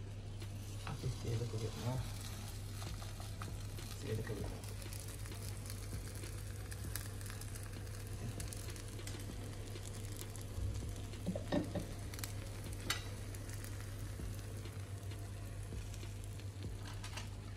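Egg-in-bread toast with cheese and tomato sizzling steadily in a nonstick frying pan, over a steady low hum, with a few light knocks about a second in and again around the middle.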